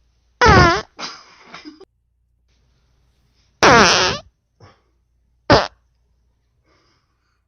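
Three fart sounds: two drawn-out ones falling in pitch, about three seconds apart, then a short sharp one a couple of seconds later, with weaker sputters after the first.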